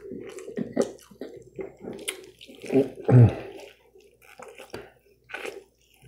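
Close-up wet chewing and lip smacking of a person biting into and eating a sauced fried chicken breast, a run of short smacks and clicks with one louder mouth sound about three seconds in.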